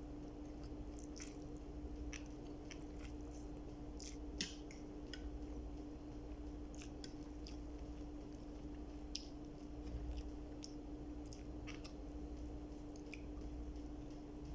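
A person chewing and biting food close to the microphone, with irregular small wet clicks and smacks. A steady low hum runs underneath.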